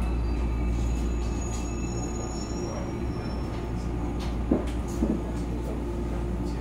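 JR 281 series Haruka electric train rumbling as it creeps to a stop at a station platform, heard from the doorway inside the car, with a faint high brake squeal about two seconds in.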